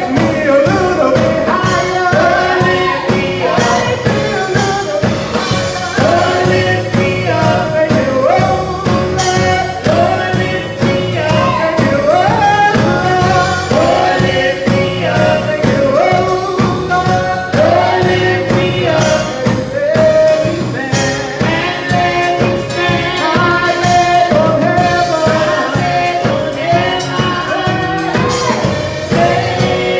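Gospel song sung by a church praise team, several voices singing together over instruments with a steady beat.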